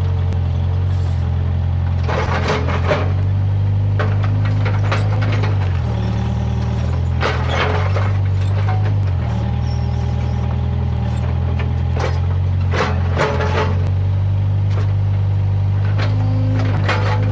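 Case 580G backhoe loader's diesel engine running steadily under working load, its pitch dropping and recovering a few times as the load changes. Brief crackling bursts come about every five seconds over the engine, as the machine works through brush.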